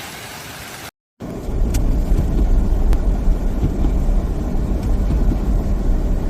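A steady hiss, a sudden cut, then a loud, steady low rumble of a motor vehicle running.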